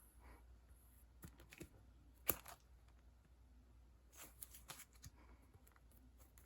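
A few soft taps and clicks of paper and packaging being handled, stickers and sticker sheets being picked up and set down, with one sharper tap about two seconds in.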